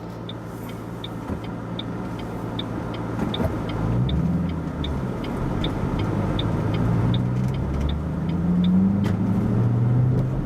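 A manual-transmission car's engine heard from inside the cabin, pulling away and rising in pitch through the gears from about four seconds in. A turn-signal indicator ticks steadily for the first seven seconds or so, then stops.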